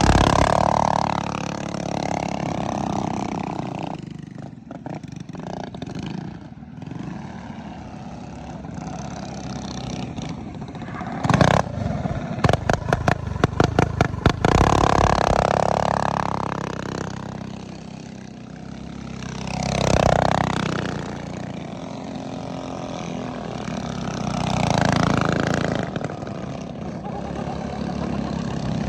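Minibike engines running, swelling and fading as the bikes rev and pass by several times. A rapid run of sharp clicks and rattles comes near the middle.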